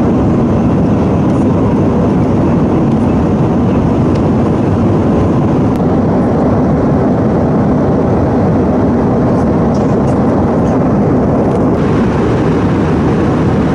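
Steady engine and airflow noise inside the cabin of an Airbus A318 airliner.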